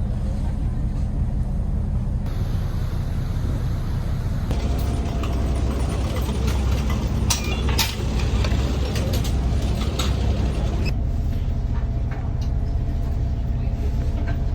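Steady low engine rumble of a moving vehicle, its tone shifting abruptly a few times, with a few sharp clicks near the middle.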